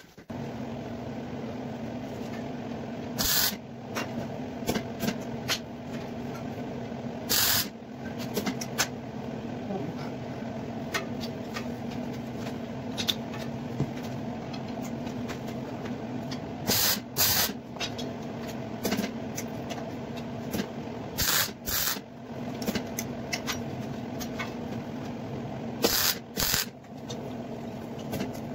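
Welding equipment running with a steady hum, broken by several short crackling bursts of welding on the steel hoops of an armillary sphere.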